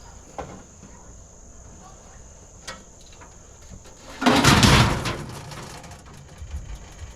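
Scrap metal being set down in a pickup truck bed: a few light clicks, then a loud metal clatter about four seconds in that lasts about a second and dies away.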